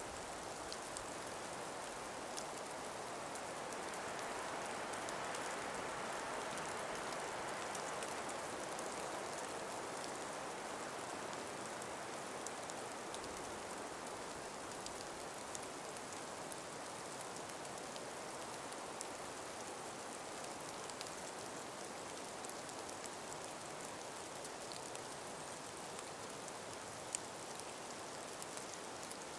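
Calm breeze through an ice- and snow-laden forest: a soft, steady rush that swells a few seconds in and slowly eases, with faint scattered ticks and patters throughout.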